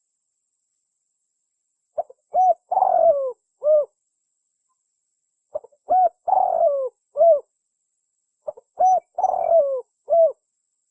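Spotted dove cooing: three phrases about three and a half seconds apart, each a couple of short coos, a longer coo that falls in pitch, and a closing coo.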